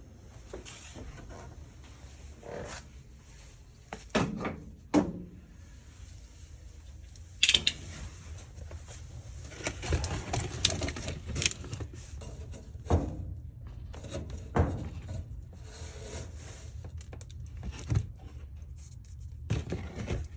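Scattered knocks, clunks and short scrapes of things being handled, over a low steady hum.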